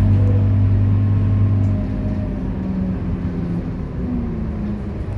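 Scania K230UB bus's five-cylinder diesel engine running under load with a steady drone. It eases off about two seconds in, and its pitch falls slightly.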